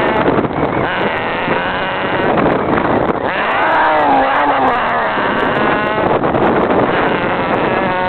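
Wind buffeting the microphone on a moving scooter, loud and steady. A pitched wail rises and falls about three and a half seconds in, with more wavering tones near the end.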